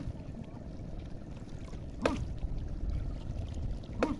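Water and wind noise from working in the sea, with a short sharp splash or knock about every two seconds.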